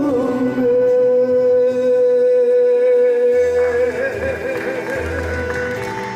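A solo singer holds one long, steady sung note over a backing track, then breaks it into a wide vibrato about four seconds in, as the note fades.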